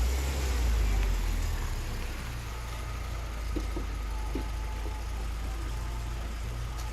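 Steady low rumble of a running motor vehicle, loudest in the first second or so and then even.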